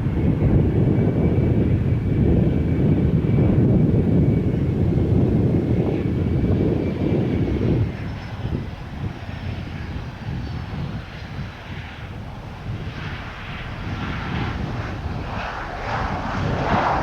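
Jet airliner on approach to land, its engines giving a loud low rumble with a faint high whine gliding slowly down; the rumble eases after about eight seconds, and a rougher rushing noise builds near the end.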